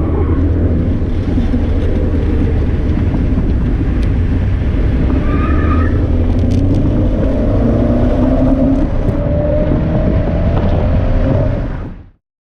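Car engine heard from inside the cabin while lapping a race track, pulling up through the revs in the second half, then the sound cuts off abruptly near the end.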